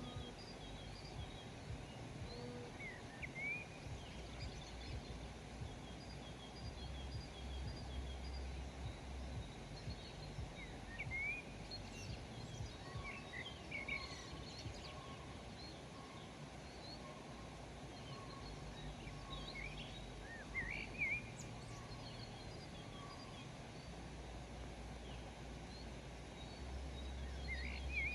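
Several birds calling at intervals, with short rising chirps and runs of thin higher notes, over a steady low rumble of background noise.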